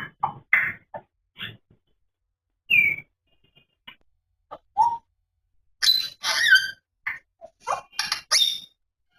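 African grey parrot calling in a series of short whistles, squeaks and clicks with pauses between them, including a few falling whistled notes; the loudest and shrillest calls come about six to eight and a half seconds in.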